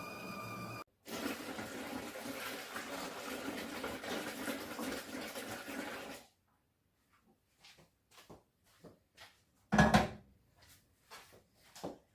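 Water running for about five seconds, then small clicks and knocks with one louder clatter about ten seconds in.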